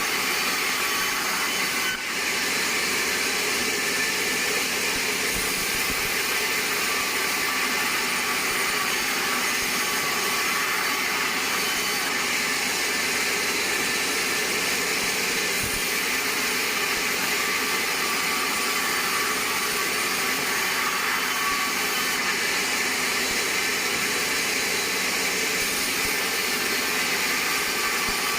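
Band sawmill running steadily as its blade saws through a large pine log, with a brief dip about two seconds in.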